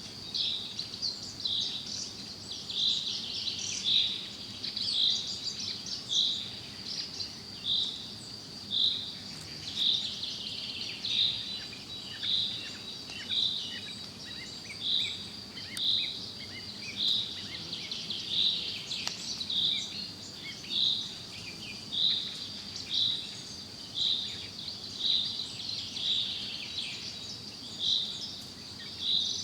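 Forest birdsong: many small birds chirping and twittering over a steady high-pitched insect drone. A short call repeats regularly about once a second.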